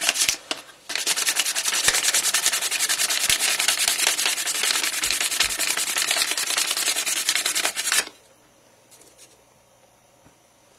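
Sandpaper rubbing on mesquite wood revolver grips in rapid, even strokes: finish sanding. A brief stroke at the start, then steady sanding for about seven seconds that stops abruptly.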